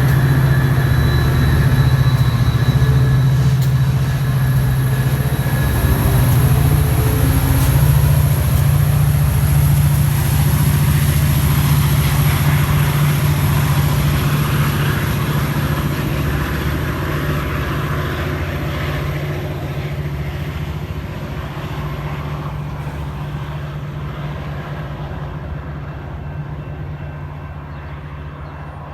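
Metra diesel commuter train running with a steady low engine drone over rail and wheel noise, growing steadily fainter as it moves off.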